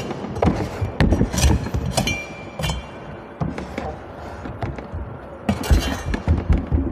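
Coconuts being cut: sharp chopping knocks, a few spaced ones in the first seconds and a quick cluster about five and a half seconds in, each ringing out in a large echoing room.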